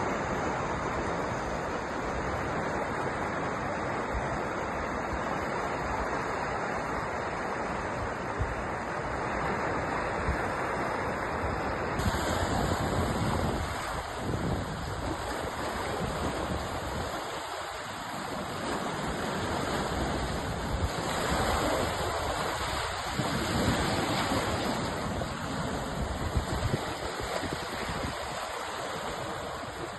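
Sea surf: waves washing in continuously as a steady rushing noise that swells and eases slowly. The high hiss changes abruptly about twelve seconds in.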